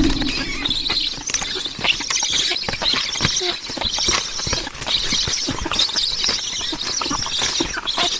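High, squeaky chattering bird calls that come in patches, over many small clicks and scratches, with a low thump at the very start.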